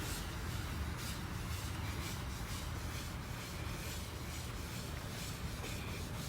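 Applicator sponge being scrubbed hard back and forth over car paint with scratch-remover compound, a steady rubbing hiss in repeated strokes, over a constant low rumble.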